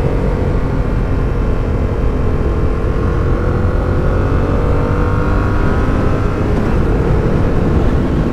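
Suzuki motorcycle engine running at a steady cruise while riding uphill, its pitch sagging a little and then rising gently. Heavy wind rumble on the helmet microphone runs underneath.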